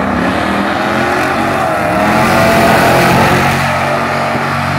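Supercharged 6.2-litre V8 of a 2015 Dodge Challenger SRT Hellcat at full throttle on a drag-strip pass, running alongside a second car's engine. The pitch rises and drops back through the gear changes, and the sound is loudest about two to three seconds in.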